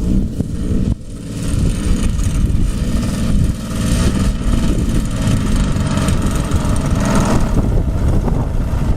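Engine of a Carden Edge radio-controlled model aircraft running steadily, coming up about a second in, with wind buffeting the microphone.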